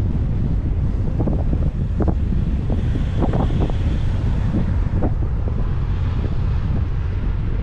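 Wind buffeting the microphone of a moving bicycle's action camera: a steady low rumble broken by short, irregular gusts.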